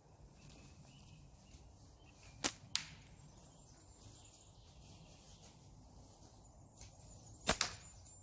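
Two slingshot shots about five seconds apart. Each is a sharp snap of flat latex bands (GZK 0.76 mm black), followed a fraction of a second later by a second crack.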